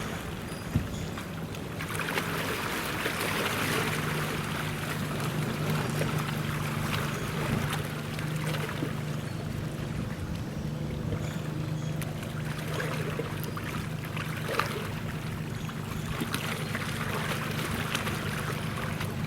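A vessel's engine droning steadily, with the noise of water and wind and a few light knocks.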